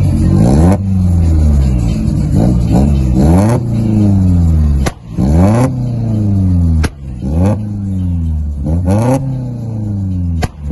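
Volkswagen Citi Golf four-cylinder engine free-revving at a standstill. The throttle is blipped again and again, so the revs shoot up quickly and fall back each time.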